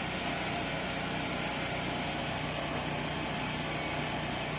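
24-inch ventless dryer running on its cool-air cycle with a steady mechanical hum; with it comes a smell of burning rubber, which the owner takes for something caught up in the motor.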